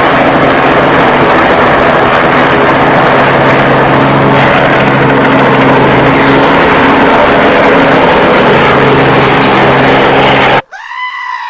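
Loud, steady engine roar with a low, even hum beneath it, which cuts off suddenly near the end.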